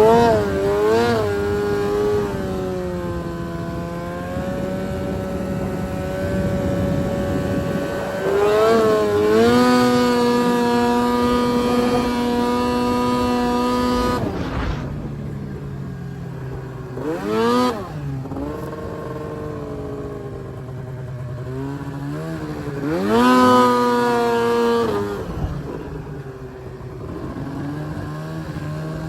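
Arctic Cat M1000 snowmobile's two-stroke twin engine revving up and holding high for several seconds, then dropping off about halfway through. A short blip and one more rev follow before it settles to a low steady idle near the end.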